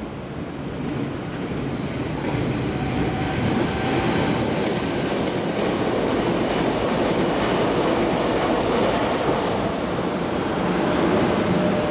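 EF66 electric locomotive hauling a rake of unpowered Tobu 50000 series cars, approaching and running past on the adjacent track. The rumble grows louder over the first few seconds, then holds steady with the wheels clicking over the rail joints.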